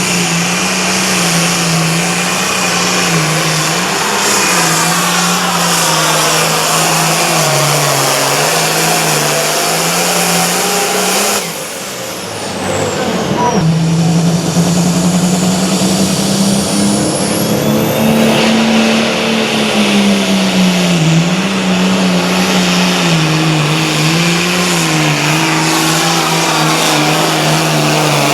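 A competition pulling tractor's engine running hard at high revs, its pitch wavering as it works. About halfway through the sound drops off briefly, then the engine picks up again and runs on.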